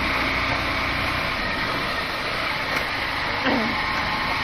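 Motorbike engine running steadily while riding, under a constant noisy hiss.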